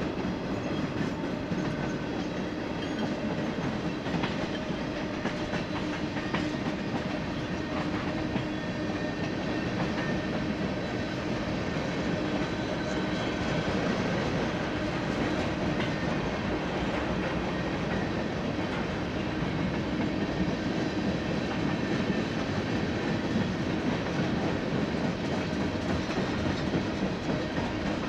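Union Pacific freight train cars rolling past: a steady rumble of steel wheels on rail, with light clicks as the wheels cross rail joints.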